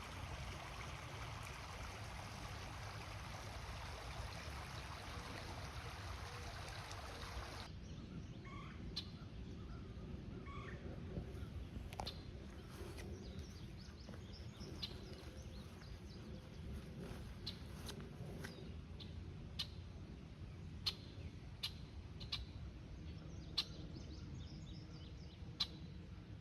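Outdoor woodland sound: a small creek babbling as a steady rush for about the first eight seconds, cutting off abruptly. After that a low steady background remains, with scattered short, sharp bird chirps.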